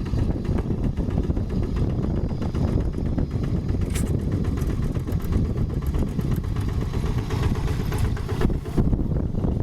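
Two-wheel hand tractor's diesel engine running steadily under work, with an even, fast firing rhythm.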